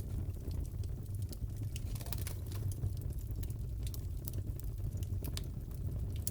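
Wood fire crackling in a fireplace: a steady low rumble with irregular sharp crackles and pops scattered through.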